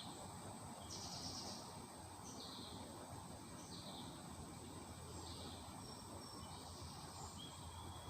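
Faint, short bird chirps repeating roughly every one to two seconds over a steady high hiss.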